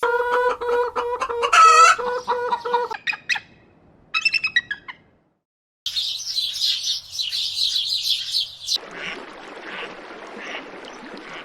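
Bird calls in several short edited segments. First comes a rapid run of repeated pitched calls, then a shorter burst of calls and a brief cut to silence, then a dense, high chattering.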